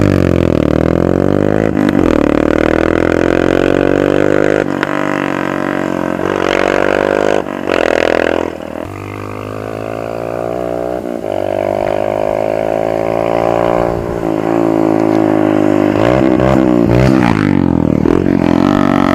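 Royal Enfield Himalayan's single-cylinder engine through a loud aftermarket exhaust, running with its pitch rising and falling again and again as it is revved. There is a brief break about eight seconds in.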